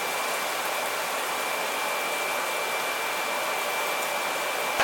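Steady rushing noise of an electric blower, such as a hair dryer or fan, running evenly with a faint steady high whine.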